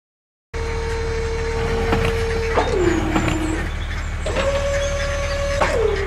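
Steady engine rumble under a whine that holds, then slides down in pitch, twice: the sound of a tipper trailer raising its bed and dumping a load of gravel. It starts about half a second in.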